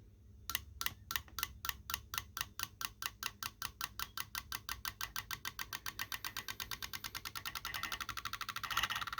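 A small object set going on a laptop, rattling against it in an engine-like way: clicks about five a second that speed up steadily into a fast, motorcycle-like buzz near the end.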